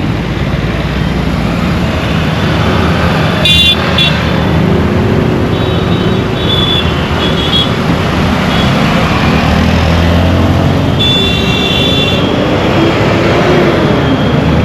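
Busy road traffic heard from a moving vehicle: a steady hum of engines and tyres, with vehicle horns honking over it. There is a short blast a few seconds in, a run of short toots in the middle, and a longer horn blast about three-quarters of the way through.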